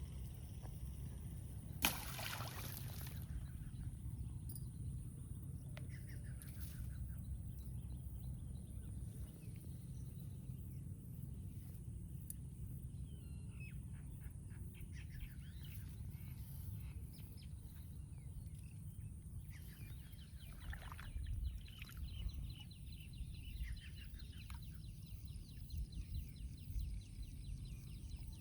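Outdoor ambience with a steady low rumble and scattered short bird-like calls. A sharp click with a rustle follows about two seconds in.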